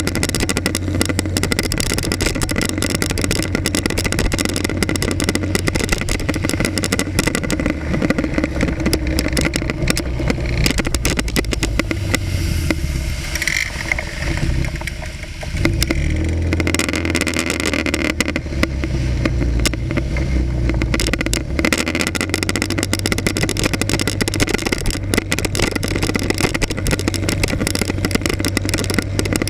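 Motorcycle engine running through city traffic, heard from an action camera mounted on the front of the bike, with wind and road noise on the microphone. The engine eases off briefly about halfway through, then picks up again.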